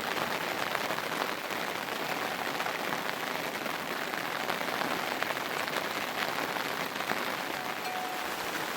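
Heavy monsoon rain falling steadily: a dense, even hiss made up of countless small drop hits.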